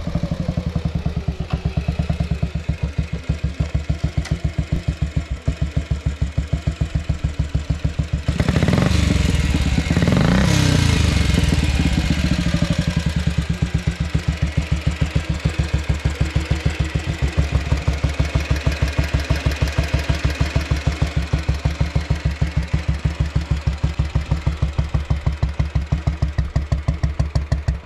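Junak M10's single-cylinder four-stroke engine running on a replica Pegas GM26U carburettor, with each firing stroke heard as an even pulse. It swells louder and fuller about 8 to 13 seconds in, then settles back to a steady idle.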